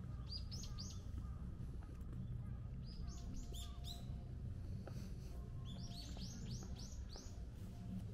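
Small birds calling in quick runs of short, high chirps, three runs in all, each of several notes, the longest near the end, over a low steady background rumble.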